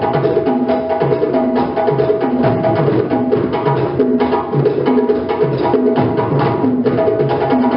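A group playing djembe drums together in a fast, steady rhythm, with dense sharp hand strokes over a deeper bass stroke that recurs on a regular beat.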